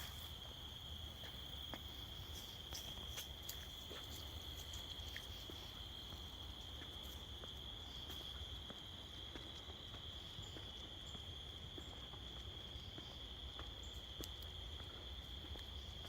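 Crickets trilling steadily in one continuous high-pitched band, with scattered faint ticks over it.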